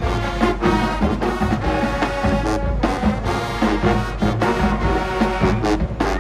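Marching band playing: brass section with trombones and trumpets over a steady drumline beat.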